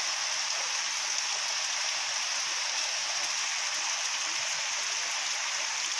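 Heavy rain pouring down in a steady, even hiss, with no let-up.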